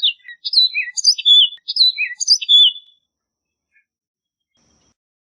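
Orchard oriole singing: a rapid, varied run of clear whistled and slurred notes lasting about three seconds, then a pause.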